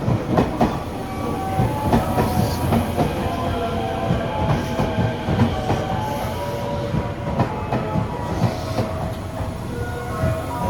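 A train running by, its wheels clacking repeatedly over the rail joints over a steady rumble, with a few faint held whining tones.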